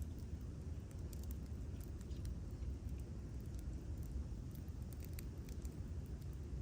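Wood campfire crackling, with scattered sharp pops and ticks over a low steady rumble.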